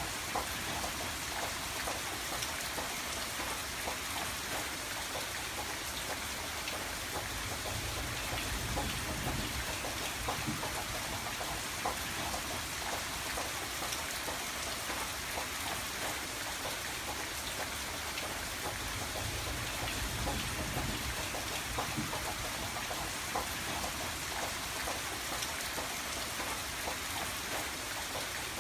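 Steady rain falling on a window pane, an even hiss full of small drop ticks. A low rumble swells up twice, about a third and about two-thirds of the way through.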